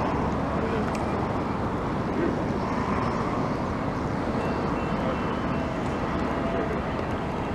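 Steady rumble and running noise of a moving train, with no distinct events.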